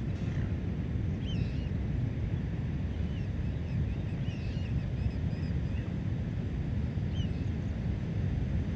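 Birds giving short chirping calls, about half a dozen spread through the stretch, over a steady low rumble.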